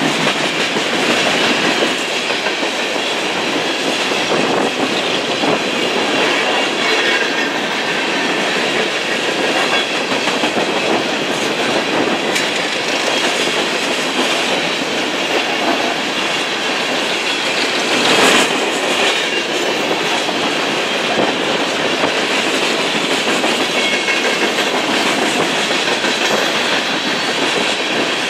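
Freight train cars rolling past, the wheels clattering steadily over the rail joints, with one louder clank about eighteen seconds in.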